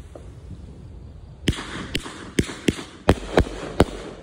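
A 500 g consumer firework cake (Raccoon 'Wings of Desire') firing aerial shots. After a quieter first second and a half, it gives a rapid run of about eight sharp bangs, roughly two a second.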